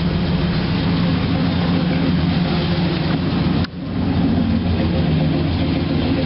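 1988 Chevrolet Caprice Classic's carbureted 5.0 V8 with a four-barrel carburetor idling steadily while warming up after a cold start. The sound drops out sharply for a moment about two-thirds of the way through, then carries on.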